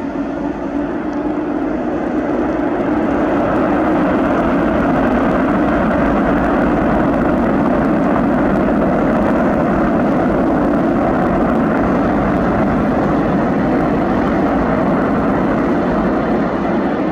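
Boeing 747-400 freighter's four jet engines running as it passes, a loud steady rumble that swells over the first few seconds, holds, and eases near the end.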